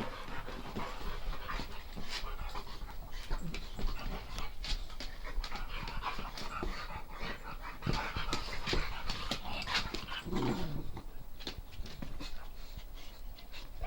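Dogs play-fighting: panting, with scuffling and small knocks throughout and one short falling cry about ten and a half seconds in.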